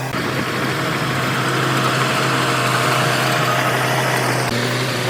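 Heavy machine's diesel engine running steadily at idle, with a constant low hum.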